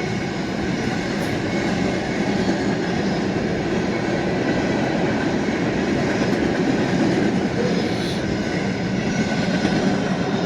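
BNSF freight train rolling past: a steady rumble of steel wheels on the rails.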